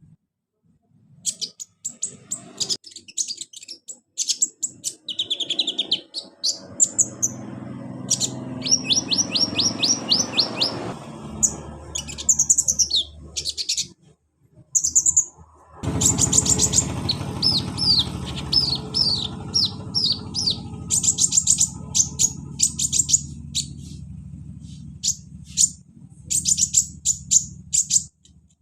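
Kolibri ninja sunbirds singing: strings of rapid, high chirps and trills, repeated throughout, over a steady low background noise. The sound breaks off briefly a few times, once near the start and twice around the middle.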